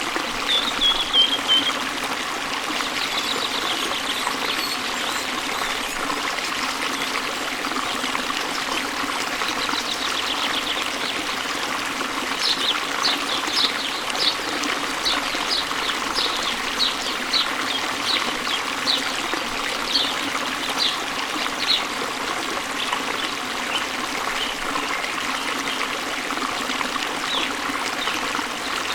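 Steady rush of a waterfall and flowing stream, with birds chirping over it. There is a short falling trill near the start, and from about halfway a bird repeats a short high note roughly twice a second for about ten seconds.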